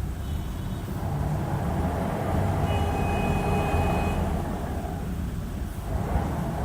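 Hyundai Aerocity 540 city bus driving, its engine and drivetrain noise swelling about a second in, easing off around five seconds and picking up again near the end. Two brief thin, high squeals sound over it.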